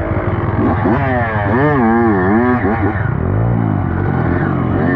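Dirt bike engine running under way, its pitch rising and falling quickly with the throttle, then dropping lower and swelling more slowly after about three seconds.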